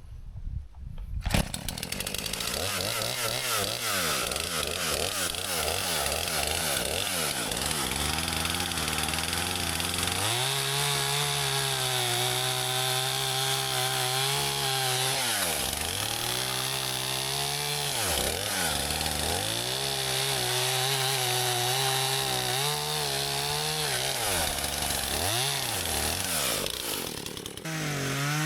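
Small gasoline engine of a Hud-Son HFE-33 portable bandsaw mill running steadily, its pitch dipping and recovering several times in the second half.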